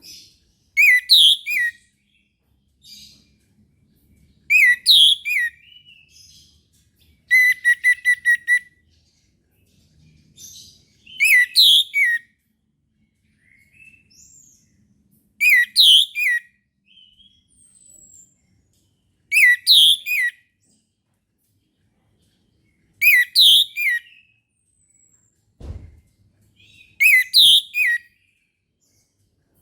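Orange-headed thrush singing: a loud, short whistled phrase repeated about every four seconds, with a fast run of repeated notes about seven seconds in and soft calls between the phrases. A single low thump near the end.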